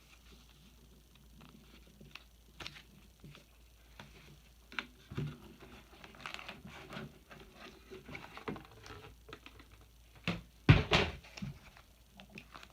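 Handling of the flower press kit's parts: scattered light taps, clicks and rustles as the plastic pieces, clips and packaging are moved about, with a louder clatter about eleven seconds in.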